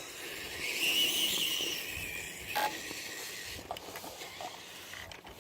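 Electric motor and gearbox of a Tamiya TXT-2 RC monster truck whining as it drives, rising and then falling in pitch over the first couple of seconds, with a short knock about two and a half seconds in.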